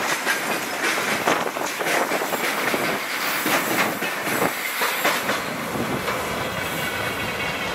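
Freight train of tank wagons rolling past close by, wheels clattering over the rail joints. The clatter thins out after about five or six seconds as the last wagon passes and the train rolls away.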